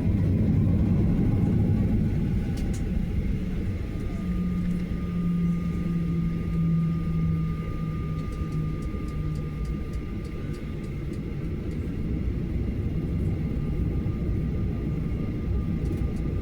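Boeing 737-900ER's CFM56 jet engines running steadily at low power, heard inside the cabin as an even low rumble with a thin steady whine.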